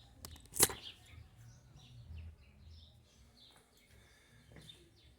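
A single sharp knock about half a second in, then faint small taps and handling sounds as the repaired fan base is worked on.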